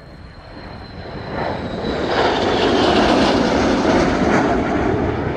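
Fixed-wing aircraft flying past. Its engine noise swells over about two seconds to a loud peak, with a faint falling whine, then eases slightly near the end.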